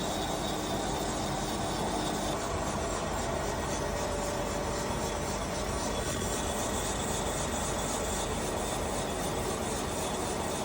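Line boring machine running steadily, cutting the main bearing bores of a jet ski engine crankcase in its final boring pass, with a constant machining noise and a few faint steady tones.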